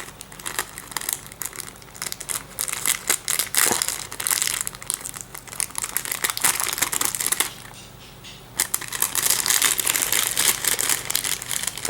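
Plastic or paper packaging being handled and unwrapped: irregular crinkling and rustling, with a short lull about two-thirds of the way through before it starts again.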